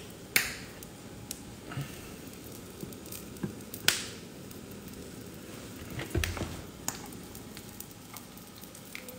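Egg sandwich frying in a hot pan: a low, steady sizzle with several sharp crackles and pops, the loudest about four seconds in, as avocado oil is poured into the pan.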